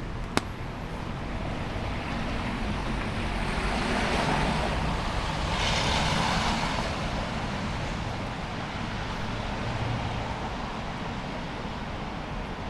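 A vehicle driving past on a wet street. Its tyre hiss swells to a peak about halfway through, then fades back into the steady street background. A single sharp click comes just after the start.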